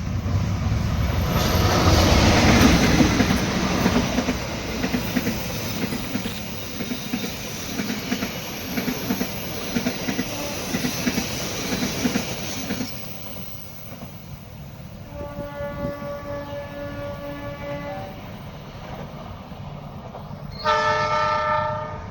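A passing train: wheels rumbling and clacking over rail joints in an even rhythm, loudest near the start and dying away a little past halfway. Then a train horn sounds twice: a steady blast of about three seconds, and a louder, shorter one near the end.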